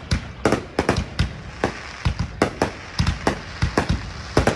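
Fireworks display: shells bursting in a rapid, irregular string of sharp bangs, about three or four a second, each trailing a short echo.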